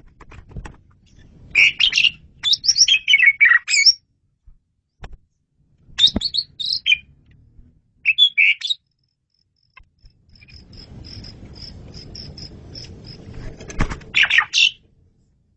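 Asian pied starling (jalak suren) singing: loud bursts of varied chattering and whistled phrases separated by short silences. Later comes a run of quick, high repeated notes, and then a final loud phrase near the end.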